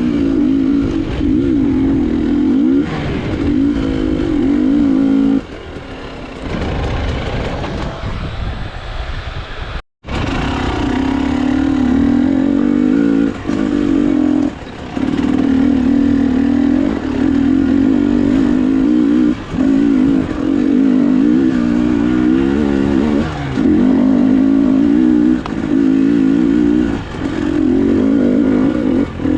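Enduro motorcycle engine running under throttle on a trail ride. Its note wavers and drops briefly every few seconds as the throttle is rolled off and on, and the sound cuts out abruptly for a moment about ten seconds in.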